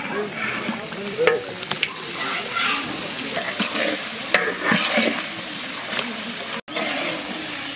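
Onions and spice paste frying in hot oil in a large kadai, sizzling steadily, while a metal ladle stirs and scrapes in the pan with a few sharp clinks.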